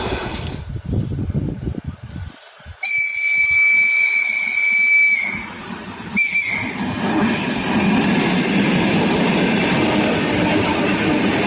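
Electric train sounding its high whistle: one long blast of about two and a half seconds, then a short one. After that, the steady loud noise of the train running past on the rails.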